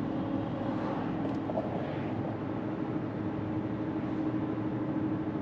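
Steady road and engine noise inside a moving car's cabin, with a constant low hum under it.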